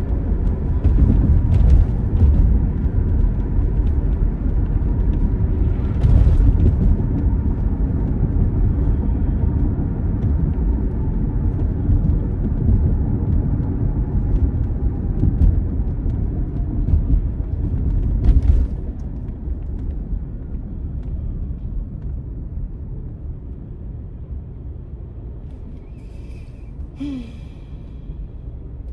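A car on the move, heard from inside the cabin: a steady low road-and-engine rumble that drops noticeably in level about two-thirds of the way through, with a few faint clicks near the end.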